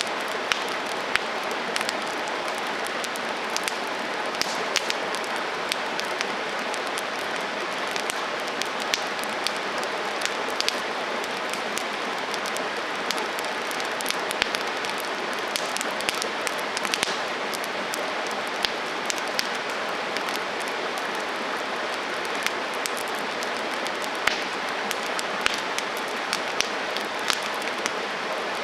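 Wood campfire burning: a steady hiss of flames with frequent, irregular sharp crackles and pops from the burning wood.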